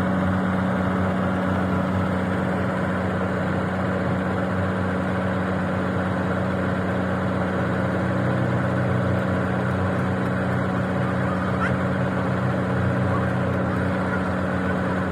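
A machine's motor running steadily with a constant low hum and no change in speed.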